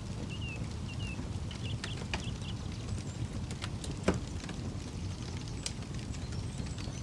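Campfire burning with a steady low rumble and scattered crackles, and one loud sharp pop about four seconds in.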